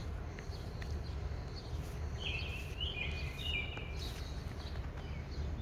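Songbirds singing, with scattered short chirps and one bird giving a warbled phrase of several notes in the middle, over a steady low rumble.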